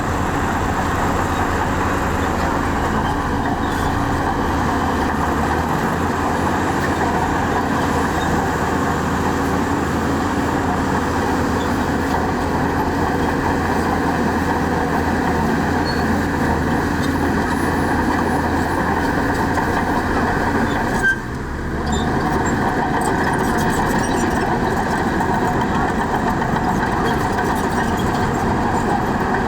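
Heavy diesel earthmoving machinery running steadily, with a brief dip about two-thirds of the way through.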